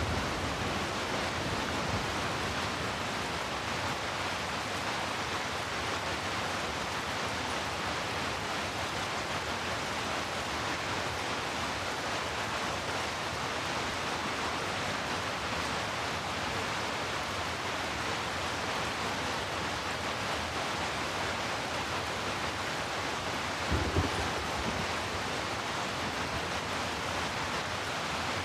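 Steady rain falling, an even hiss, with a short low rumble of thunder about four seconds before the end.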